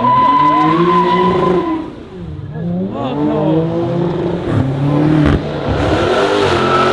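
A car's engine revving hard while its tyres squeal and skid, the engine note rising and falling repeatedly; it drops briefly about two seconds in and then climbs again.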